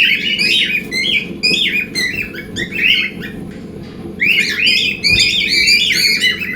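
Several cockatiels chirping and squawking in quick, repeated short calls, with a brief lull midway, over a steady low hum.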